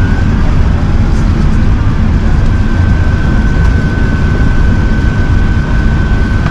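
Cabin noise inside an Airbus A380 in flight or on the ground: a loud, steady rumble of engines and airflow. A thin, steady high whine comes in about two and a half seconds in and holds.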